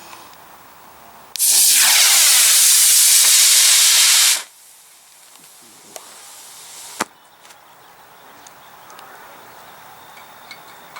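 Model rocket motor igniting and burning: a loud, steady rushing hiss starts about a second in and lasts about three seconds, then fades quickly as the rocket climbs away. A single sharp pop follows about two and a half seconds later, the ejection charge firing at the end of the coast.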